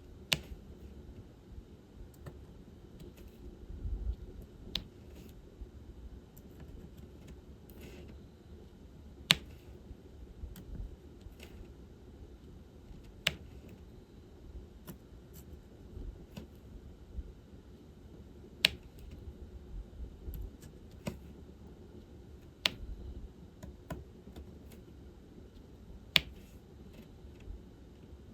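Diamond painting handwork: a drill pen tapping and picking resin drills in a plastic tray and pressing them onto the canvas, as irregular small clicks and taps, with a louder sharp click every few seconds.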